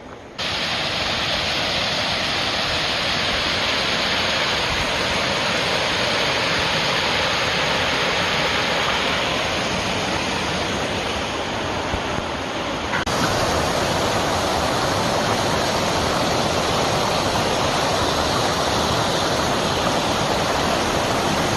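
Waterfall running high and swollen after heavy rain: a loud, steady rush of falling water. It starts suddenly, and its tone changes abruptly about two-thirds of the way through.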